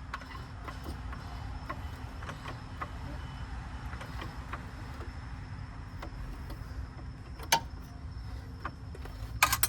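Scattered light clicks and metal clanks of hand tools and suspension parts being worked on under a car, over a steady low shop hum. One sharper clank comes about 7.5 seconds in and a quick cluster of clanks near the end.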